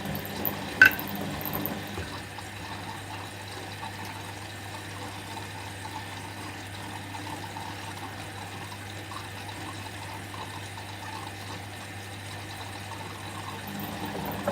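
Whirlpool washing machine on a 30° delicate cycle, with water running into it against a steady hum. A single sharp click comes about a second in.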